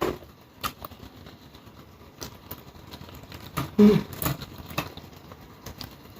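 Eating sounds: scattered clicks and small crunches of chewing and utensils, with a brief voice-like murmur about four seconds in.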